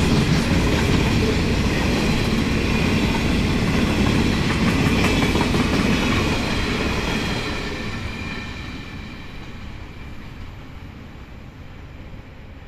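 Freight train wagons rolling past on the rails, with a faint high whine above the running noise. From about six seconds in the sound fades steadily as the train moves away.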